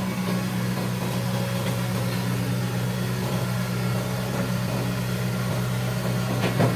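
Hitachi Zaxis 110 excavator's diesel engine running steadily with a low, even hum, and one short knock near the end.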